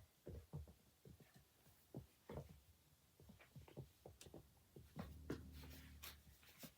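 Near silence with faint scattered clicks and light rustles, and a faint low hum for about a second near the end.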